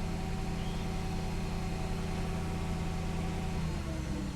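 Mercedes E420's 4.2-litre V8 idling steadily shortly after start-up; near the end the idle note steps down slightly.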